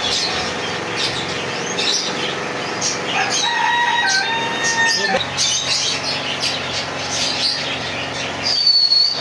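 Many caged birds chirping and calling together, with one long held call about three to five seconds in and a loud high whistled note near the end. A low steady hum underneath stops about five seconds in.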